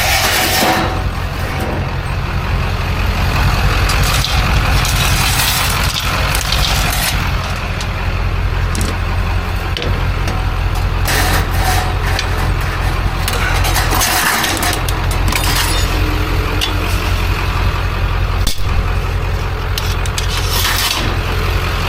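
Steady low engine rumble with scattered clicks and clanks of metal parts being handled and pried apart.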